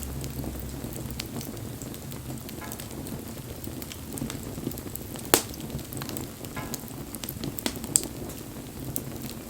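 Wood fire crackling and hissing, with scattered small snaps and two sharp, louder pops, one a little past the middle and one near the end.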